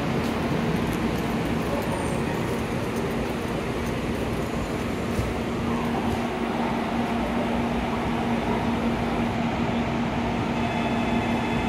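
N700-series Shinkansen train standing at the platform, its equipment humming steadily: a constant low tone over an even hiss, a little stronger from about halfway.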